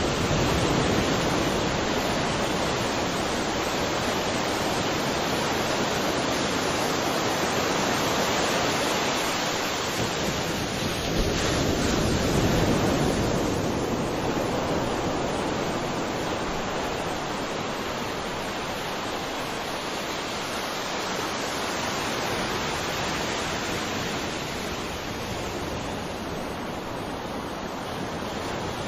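Sea waves breaking and washing onto a shore, a steady rushing surf that swells in two broad surges, at the start and about eleven seconds in, then slowly eases.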